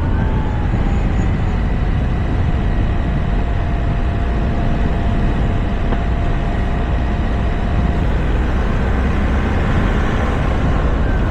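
Toyota RAV4 driving at road speed, heard through a roof-mounted camera's microphone: a steady rumble of wind and tyre noise, with a faint whine that slides a little lower over the first two seconds and stops about eight seconds in.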